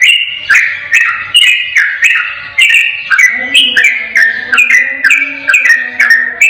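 Yellow-vented bulbul (trucukan) singing a fast, unbroken run of short bubbling whistled phrases, about two a second, each note stepping up and down in pitch and opened by a sharp high click.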